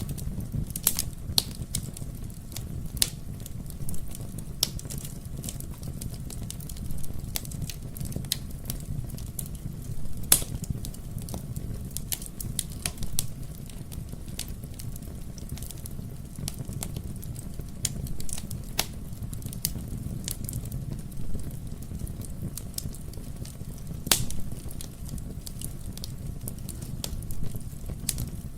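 Wood fire burning in a fireplace: a low steady rumble with irregular sharp crackles and pops throughout, a few louder pops scattered among them.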